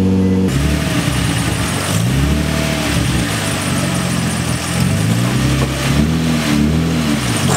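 Infiniti G35 coupe's V6 engine running on its stock Y-pipe and exhaust: a steady idle that breaks about half a second in into repeated revs, the pitch rising and falling several times. Pretty loud.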